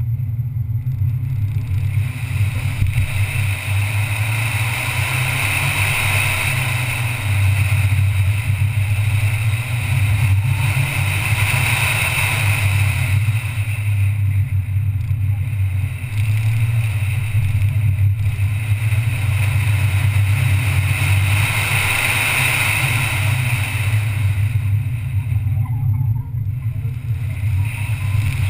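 Ford Fiesta ST's turbocharged 1.6-litre four-cylinder engine driven hard through an autocross run, its note swelling and easing several times.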